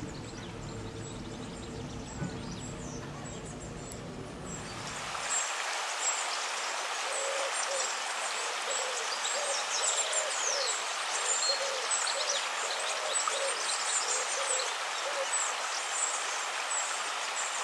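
A low, steady background sound gives way about five seconds in to a nature recording. In it a bird repeats a short low call about twice a second, with high thin chirps from other birds, over a steady hiss.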